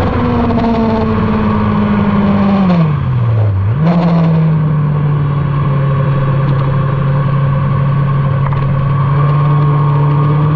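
Motorcycle engine running at speed on a race track. Its note sinks slowly, falls away steeply about three seconds in, then jumps back up and holds steady.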